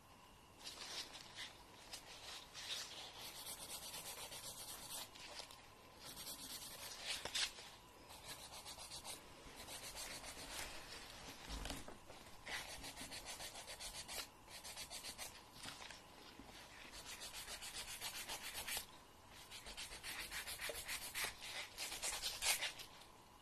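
Fingernail being filed: rapid scratchy strokes of a nail file rubbing across the nail, in spells of a second or two separated by short pauses.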